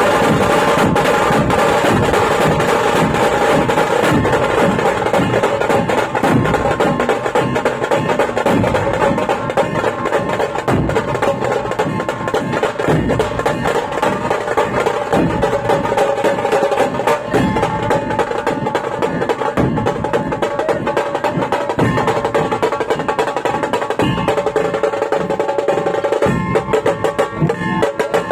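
Drums beaten in a fast, dense roll over sustained held tones, with the strikes growing more spaced out near the end.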